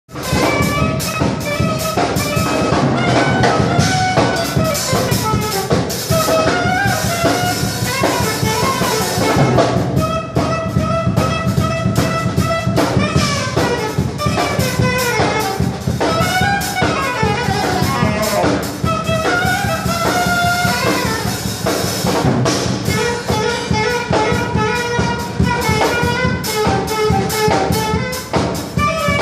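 Saxophone playing a jazzy melody with bending, sliding notes over a steady drum beat.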